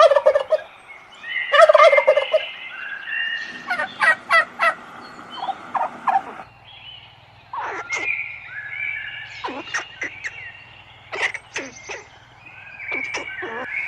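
Bird calls: two loud, rapid rattling calls near the start, followed by a series of short, sharp calls and chirps.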